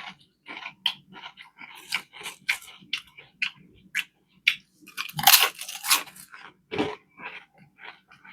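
Close-miked crunching and chewing of food, a run of irregular crisp crunches with the loudest bout of crunching about five to six seconds in.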